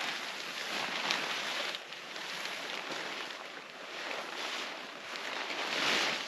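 Wind blowing through trees, a rushing, rustling noise that swells and eases in gusts every second or two.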